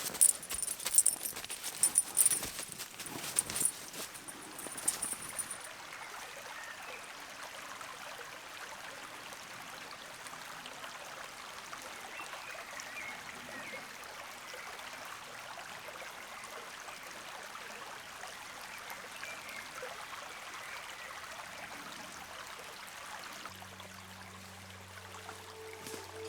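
Irregular clicks and knocks with some jingling for the first five seconds or so, then a steady outdoor hiss with a few faint high chirps. Music with held tones comes in near the end.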